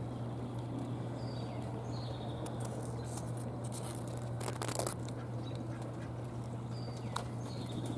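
Quiet outdoor garden ambience: a steady low hum under short high bird chirps in two pairs. A brief brushing or handling noise sounds a little past halfway, the loudest moment.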